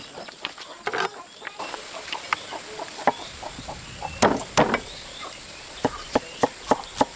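Chickens clucking, with short calls about a second in and again past the middle, over scattered sharp clicks and knocks that turn into a quick regular tapping near the end.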